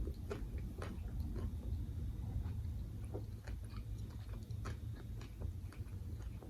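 Close-up chewing of a bite of banh mi sandwich: many small, irregular wet clicks and crunches with the mouth working.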